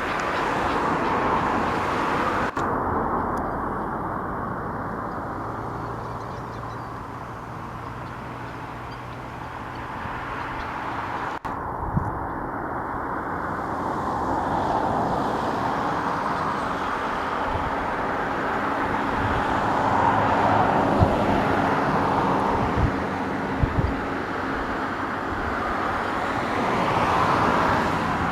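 Hi-rail excavator's engine running as it travels along the railway track, with a steady hum and a rushing noise that swells and fades several times like passing road traffic. A few short knocks come in the second half.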